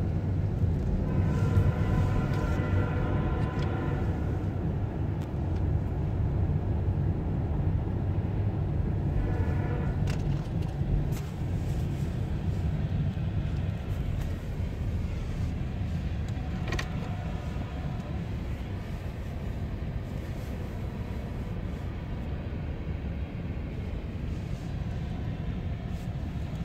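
Freight train of coal hopper cars rolling across a grade crossing, a steady low rumble heard from inside a waiting car's cabin. Pitched tones ride over it about a second in and again around ten seconds in.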